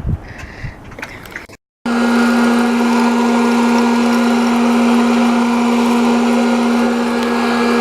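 After a brief snatch of outdoor sound and a cut, an electric popcorn popper's motor runs with a loud, steady whirring hum.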